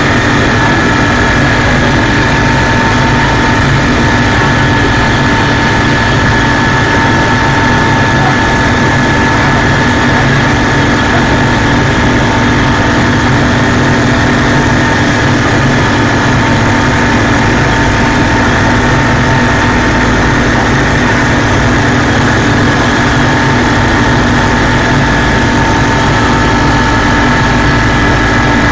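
Helicopter in flight: loud, steady engine and rotor noise with a constant high whine over it.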